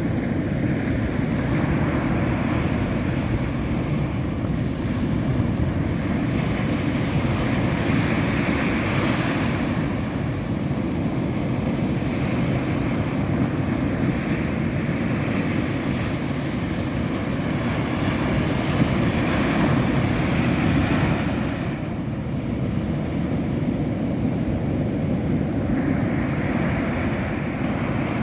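Indian Ocean surf breaking and washing up a beach, with wind rumbling on the microphone; the hiss of the wash swells up a few times as waves come in.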